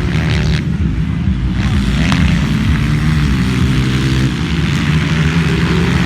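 Motocross bike engines of the 200cc class running hard, their pitch rising and falling as the riders work the throttle.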